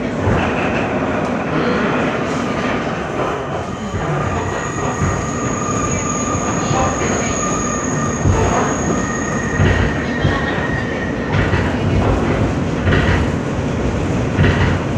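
R160 subway car running between stations, heard from inside: a loud steady rumble of wheels on rail with frequent clacks over the rail joints. A steady high-pitched wheel squeal sounds from about four seconds in to about ten seconds in.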